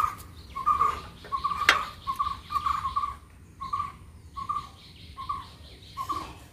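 A bird repeating a short chirping call about every three-quarters of a second. Under two seconds in there is one sharp metallic click, likely the spanner on the bicycle's rear axle nut.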